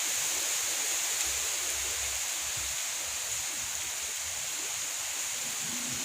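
Heavy rain from a summer storm pouring down in a steady, even hiss.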